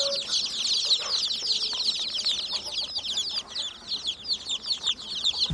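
A flock of poultry chicks peeping: many rapid, high, overlapping chirps that run on without pause.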